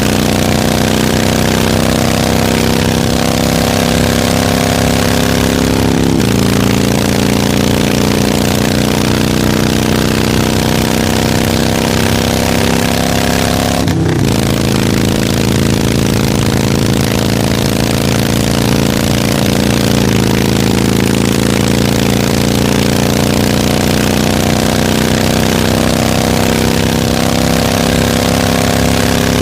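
Harley-Davidson motorcycle engine running steadily, its pitch drifting slightly up and down, with a brief break about halfway through.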